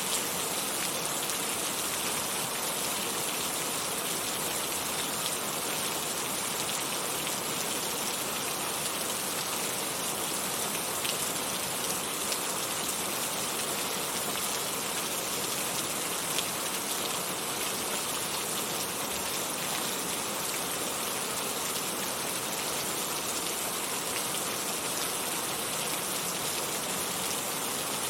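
Heavy rain falling steadily: a dense, even hiss of drops with the odd single drop tick standing out.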